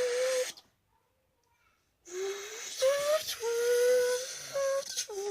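Person imitating a turbocharged car with their mouth: a hissing, whistling breath over a hummed pitch. A short burst, a pause of about a second and a half, then a longer run in which the pitch rises and falls.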